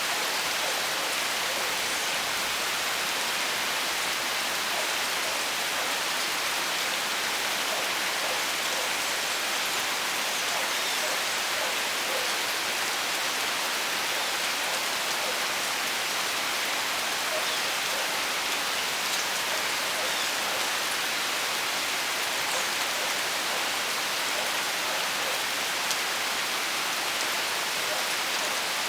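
Steady rain falling: an even hiss, with scattered individual drops ticking through it.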